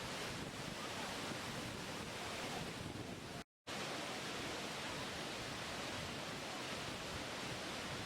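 Steady rush of moving water, an even noise with no distinct events. It drops out to silence for a moment about three and a half seconds in, then carries on unchanged.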